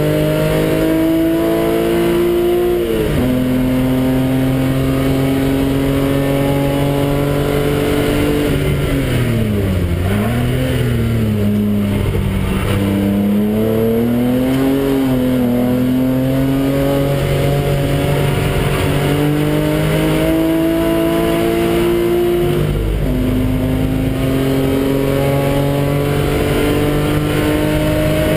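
BMW engine heard from inside the car on a race circuit, pulling hard through the gears: revs climb steadily, with upshifts about three seconds in and again near the end. In the middle the revs fall and waver as the car brakes and takes a corner, then build again.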